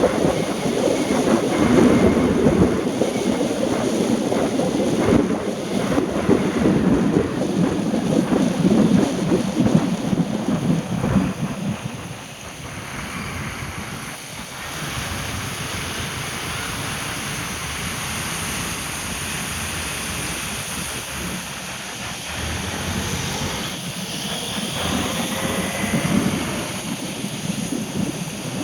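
Rain and the noise of traffic on wet roads, with wind buffeting the microphone. It is heavy and rough for the first twelve seconds or so, then settles into a quieter, steady hiss.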